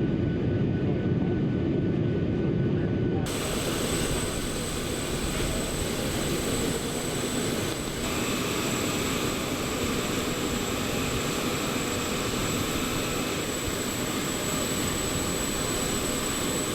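Boeing 737 MAX jet airliner noise: a steady low rumble for about the first three seconds, then after a sudden change a brighter steady jet engine hiss with a thin high-pitched whine.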